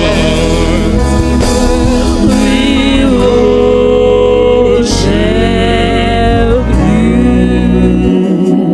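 Live gospel worship music: a band plays a slow worship song while a voice holds long, gently wavering melody notes.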